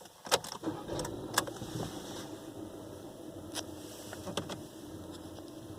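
A VW Polo Mk5 petrol engine starts with a couple of sharp clicks and settles into a steady idle. A few more sharp clicks come during the idle.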